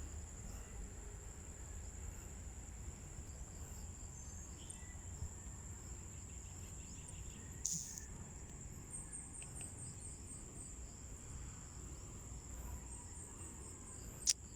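Insects trilling steadily at a high pitch, with two short series of quick high chirps, one about nine seconds in and one near the end, and a brief thump about eight seconds in.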